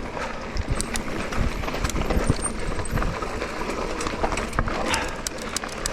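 Specialized Turbo Levo e-mountain bike rolling over a rough dirt trail: steady tyre noise with frequent irregular knocks and rattles as the bike jolts over stones.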